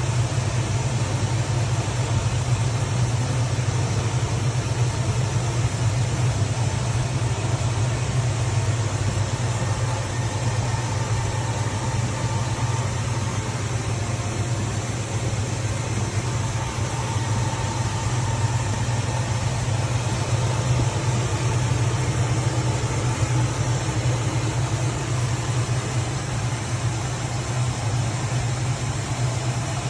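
Classic car's V8 engine idling steadily, a low even rumble with no revving.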